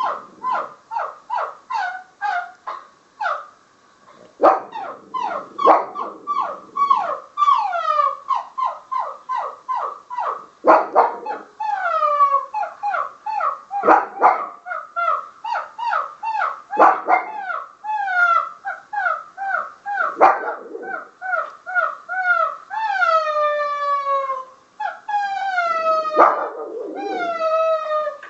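A dog yipping over and over in short, high-pitched calls that fall in pitch, about two a second, drawing out into longer falling whines in the last few seconds.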